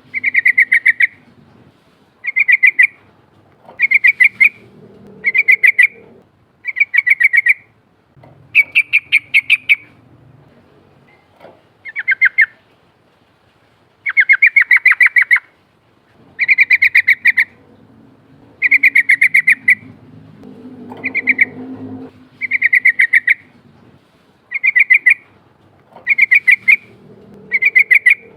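Yellow-vented bulbul (trucukan) singing its rolling song: short bubbly phrases, each a rapid run of notes, repeated every couple of seconds with a longer pause about ten seconds in.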